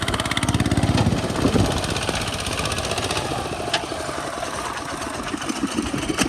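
Hand tractor's engine chugging at an even beat, easing off a little past the middle and picking up again near the end, with one sharp click about four seconds in.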